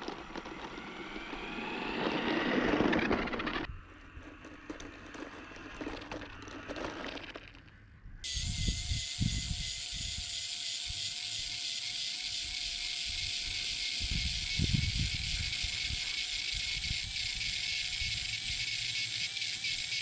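Small electric motor whirring: a rising pitch early on, then from about eight seconds a steady high whir, with a few low thumps.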